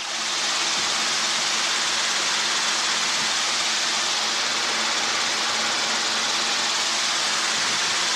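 Steady radio static hiss on the air traffic control channel between transmissions, even and unchanging, with no engine or rotor tones beneath it.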